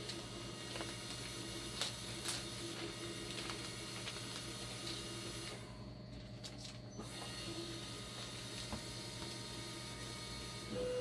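Dialysis machine running under test with a steady low hum, overlaid by scattered light mechanical clicks and ticks.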